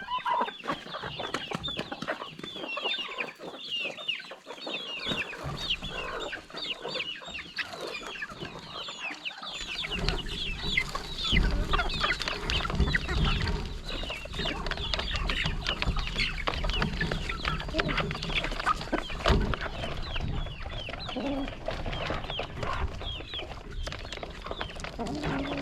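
A flock of chickens clucking and calling, with many short, high, falling calls overlapping. A low rumble comes in about ten seconds in.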